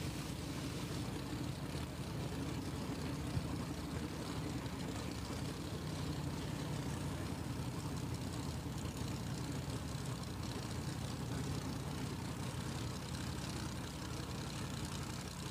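X275 drag car's engine idling steadily with a low, even rumble, with one short click about three seconds in.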